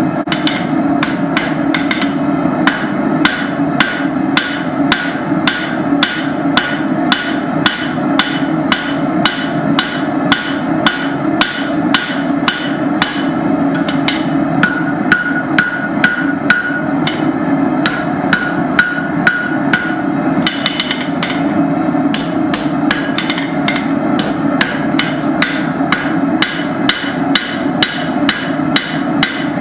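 Blacksmith's hammer forging hot steel on an anvil: a steady run of blows about two a second, the anvil ringing on some strokes, over a steady hum.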